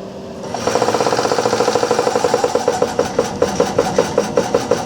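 Coltri MCH 6 electric high-pressure breathing-air compressor starting up about half a second in, its pistons pumping in a fast even rhythm of about six or seven pulses a second.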